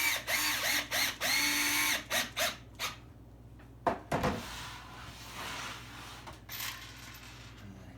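Power drill driving a deck screw into wood, the motor whirring in quick trigger pulses with its pitch rising and falling for about three seconds, then stopping. A single knock about four seconds in, followed by quieter handling of the wood.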